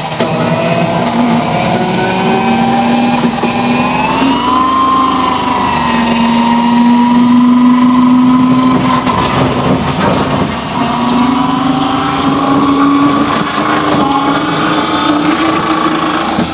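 Electric drill spinning a washing machine motor: a loud, steady motor whine with a strong low hum, its pitch lifting briefly about four seconds in and then holding.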